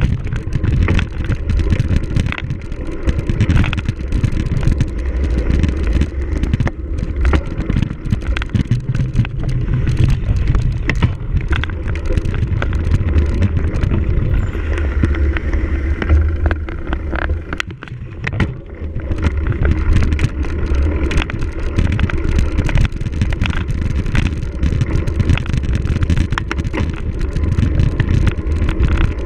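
Cyclocross bike ridden hard over rough ground: a constant rattle of knocks and clicks from the frame and chain over the bumps, with a heavy wind rumble on the microphone. The sound eases briefly about two-thirds of the way through.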